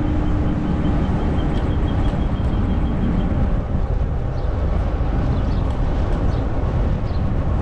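Wind buffeting the microphone and the rumble of a fat-tire e-bike rolling along a trail, steady throughout. A faint rapid ticking and a faint steady tone are heard in the first three seconds.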